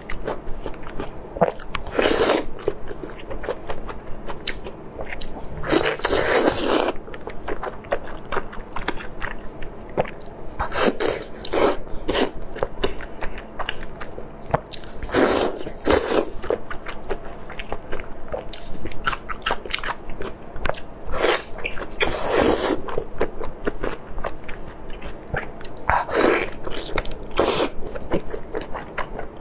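Close-miked eating: wet chewing, biting and lip-smacking on sticky braised pork intestine, with gloved hands pulling the pieces apart. Dense small clicks and smacks throughout, with louder, longer bursts every few seconds.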